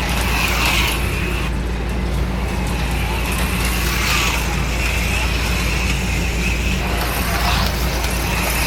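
HO-scale slot cars' small electric motors whining as they lap the track, the whine swelling each time a car runs past, over a steady low hum.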